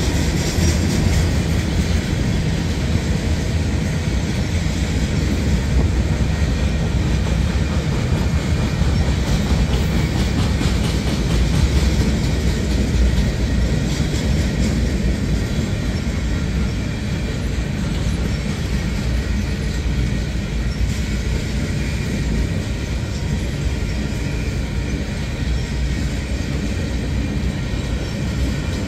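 Freight train of loaded flatcars rolling past at a steady speed: a continuous low rumble of steel wheels on the rails, with faint clicking over rail joints.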